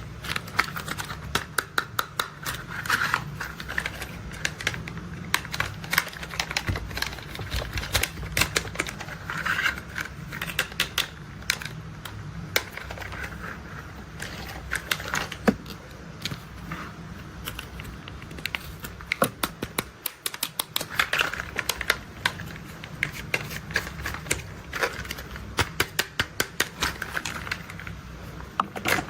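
Rapid, irregular clicking and tapping as toy construction vehicles are handled and tapped, with a few short stretches of a rolling, rustling sound.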